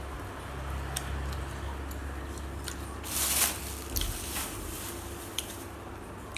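Small clicks and taps from handling food and utensils while eating, with a brief louder rustle about three seconds in, over a steady low rumble.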